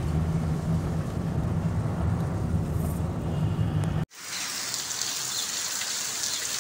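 Car interior in heavy rain: a low steady rumble of engine and road with rain on the windshield. About four seconds in it cuts off abruptly, and a steady hiss of rain falling on a wet street follows.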